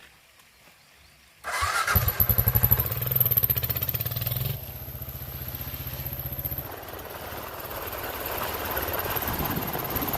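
A Kawasaki KLR 650 dual-sport motorcycle's single-cylinder engine starts about a second and a half in and runs with a fast, even beat. It is loud for the first few seconds, then drops to a lower, steadier running about halfway through.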